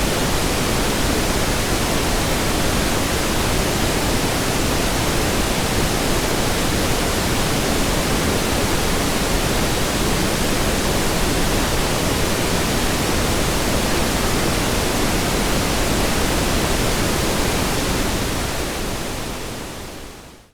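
Steady pink noise, an even hiss with no tones or rhythm, fading out over the last couple of seconds.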